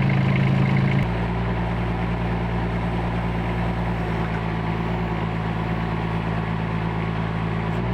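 An excavator engine running steadily, its note changing abruptly about a second in.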